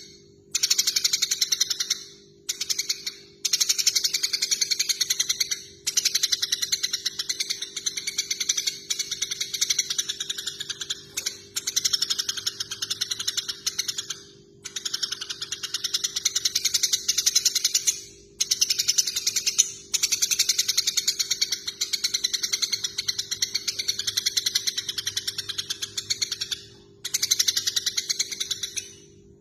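Eurasian tree sparrows chattering in long runs of fast, harsh chirps, the excited calls of sparrows fighting, broken by short pauses every few seconds.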